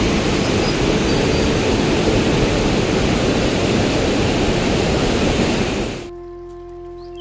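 Loud, steady rush of water, heavy and dense like a downpour or torrent, that starts abruptly and cuts off suddenly about six seconds in.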